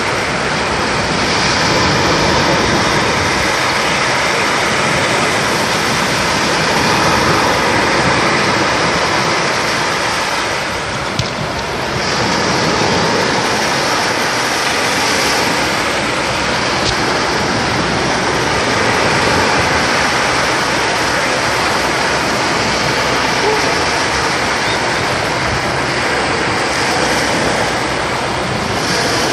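Sea waves breaking and washing up a beach, a loud steady rush that eases briefly about eleven seconds in.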